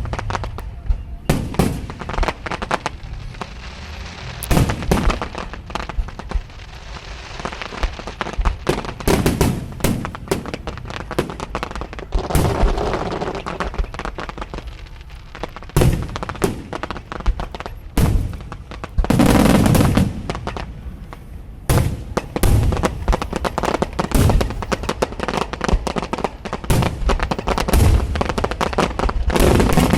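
Aerial firework shells bursting in rapid, irregular succession, sharp booms mixed with crackling, with a heavier barrage a little past the middle.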